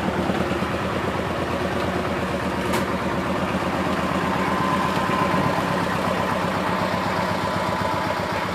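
Diesel engine idling steadily, with a thin whine coming up about halfway through and a single click about three seconds in.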